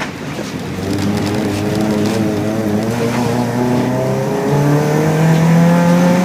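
Naturally aspirated 2.5-litre Subaru flat-four engine, from a 2005 Impreza 2.5 RS, running hard at racing pace, heard inside the car. The pitch drops briefly at the start, then rises steadily in the second half as the car accelerates.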